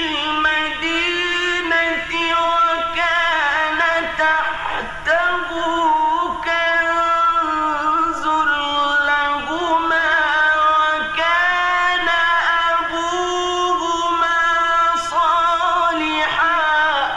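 A male reciter chanting the Quran in the melodic mujawwad style: long held notes with ornamented turns and slides between them. The voice stops near the end and leaves an echoing tail that fades away.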